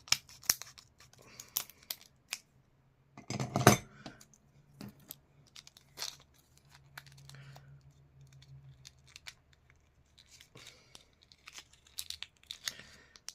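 Scissors snipping and prying at a small plastic car key fob to free a stuck coin battery: a scattered series of short clicks and snips, the loudest about three and a half seconds in.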